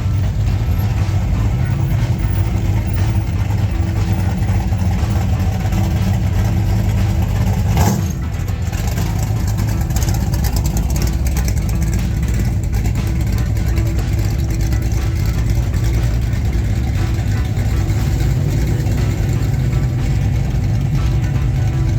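Engines of classic cars and hot rods rumbling steadily as they drive slowly past, with a short sharp knock about eight seconds in.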